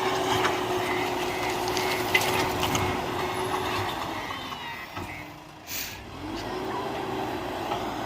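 Heavy diesel machinery engine running steadily, with scattered clicks and knocks in the first few seconds. The engine eases off around four to five seconds in, a short sharp hiss comes near the six-second mark, and then the engine picks back up with a rising pitch.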